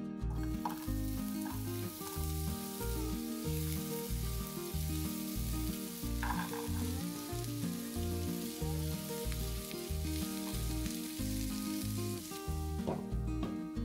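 Diced onion and carrot sizzling in olive oil in a frying pan while being stirred with a silicone spatula; the sizzle fades near the end. Background music with a steady beat plays underneath.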